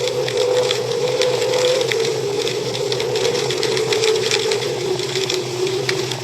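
Wood fire crackling in a fireplace, with many small irregular pops and snaps. Under it runs a steady hum that wavers slightly in pitch.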